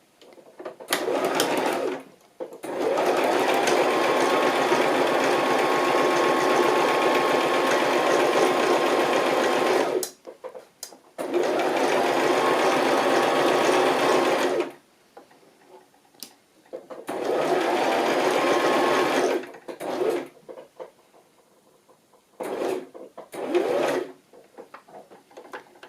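Electric sewing machine stitching in runs, most likely a zigzag stitch along the bottom of a fabric pocket: a short burst, then a long run of about seven seconds, then two shorter runs, each speeding up as it starts and stopping abruptly. Light fabric-handling clicks in the last few seconds.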